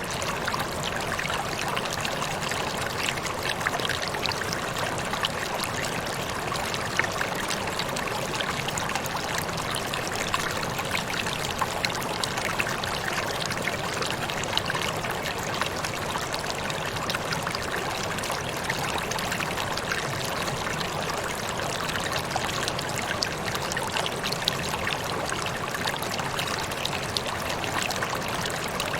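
Waterfall: water falling and splashing in a steady, unchanging rush, peppered with many small splashes.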